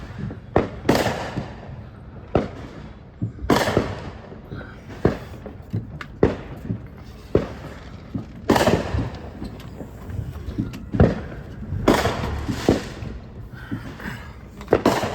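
Fireworks going off: a dozen or so sharp bangs at irregular intervals, some with a short echoing tail.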